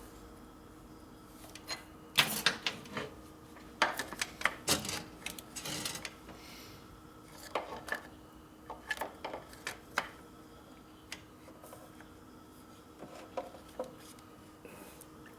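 Irregular metallic clinks, taps and knocks in several clusters as a metal tube is handled and bent by hand, with a faint steady hum underneath.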